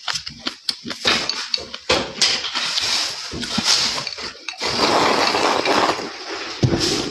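Close-up eating sounds: a quick run of chewing and crunching with crackly clicks, and a clink of dishes.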